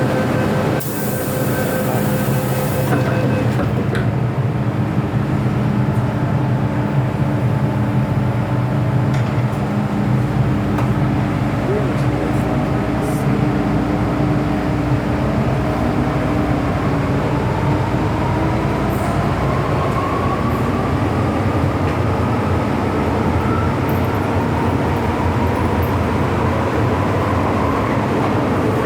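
MTR Tsuen Wan Line M-Train electric multiple unit running, with steady rumble and wheel noise. There is a brief hiss about a second in, and a motor whine rises in pitch over several seconds from about halfway through, then holds steady as the train picks up speed.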